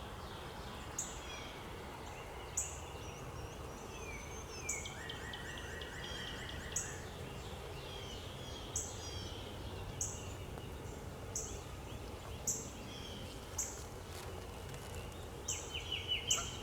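Backyard birds chirping and calling: short, high, sharp chirps repeat every second or two, with sweeping calls and a trill between them and a quick run of chirps near the end, over a steady low hum from the honeybees of the opened nuc.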